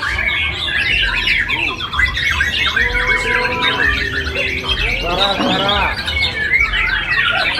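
Many caged songbirds singing at once in a dense, continuous chorus of overlapping chirps and whistles, with a few longer held notes in the middle.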